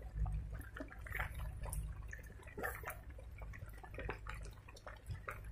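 Scattered drips and light taps of rain close to the microphone, irregular and soft, over a low steady rumble.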